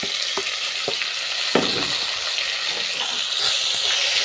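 Golden-browned onions frying in oil in a pot, sizzling steadily as tomatoes and spices are stirred in, with a few sharp knocks of a spoon against the pot. The sizzle swells louder about three and a half seconds in.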